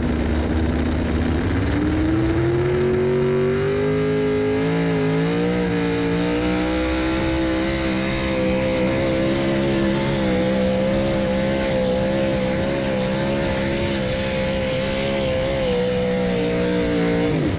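Unlimited-cubic-inch outlaw 4x4 pulling truck's engine at full throttle under sled load. It revs up over the first few seconds, then holds at high revs with slight wavering, and cuts off abruptly at the end.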